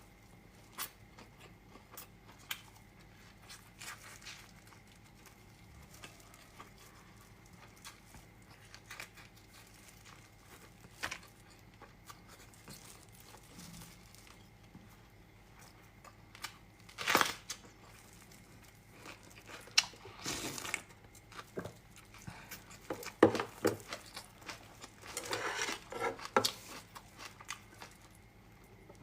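Close-miked eating sounds of a meal of Chinese blood sausage: scattered small mouth clicks and soft chewing, with several louder short bursts of eating noise in the second half.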